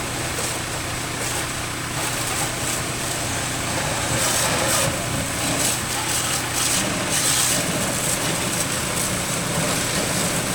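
Tractor engine idling steadily, with the hiss of a water jet spraying that swells and fades several times.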